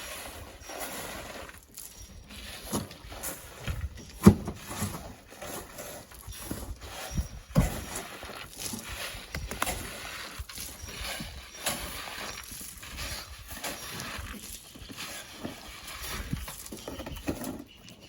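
Sand and stones being loaded by hand into a truck: irregular scrapes and knocks, with a sharp thud about four seconds in and another a few seconds later.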